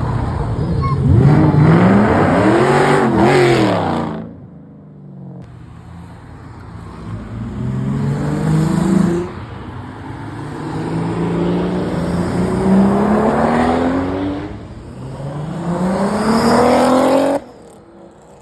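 Car engines revving and accelerating away one after another: a couple of quick throttle blips early on, then several long rising engine notes as cars pull off. The sound breaks off suddenly about four seconds in and again near the end.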